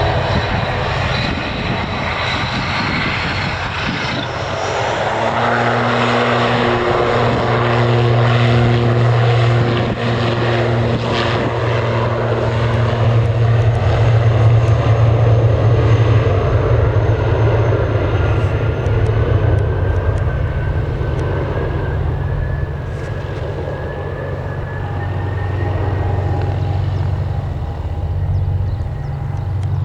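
Propeller aircraft engines running loudly: a steady low propeller drone that swells to its loudest about halfway through and eases off toward the end, with a slowly rising higher whine in the second half.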